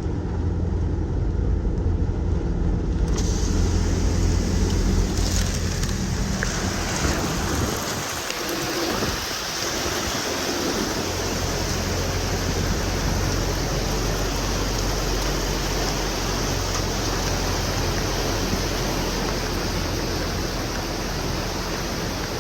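Car driving through a flooded street in heavy rain: a steady rush of water and rain over the low hum of the engine and tyres. The hiss grows fuller a few seconds in.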